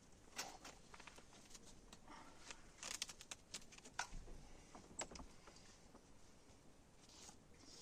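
Faint, scattered clicks and light knocks, a handful close together in the middle, over quiet room tone.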